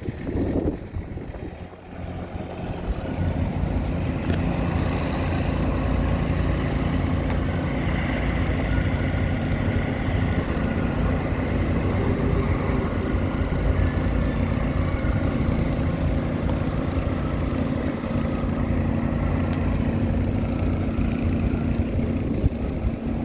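Caterpillar wheel loader's diesel engine running steadily. It dips briefly about two seconds in, then picks back up.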